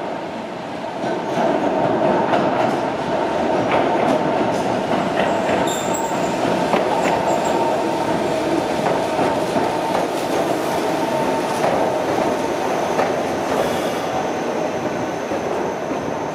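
A narrow-gauge Yokkaichi Asunarou Railway electric train running along the platform. Its wheels rumble on the rails under a steady high-pitched tone, with scattered clacks over the track. It grows louder about a second in, then holds.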